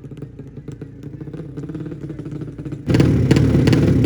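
Drag-race motorcycle engine running at a moderate level, then suddenly much louder and harsher about three seconds in, at high revs.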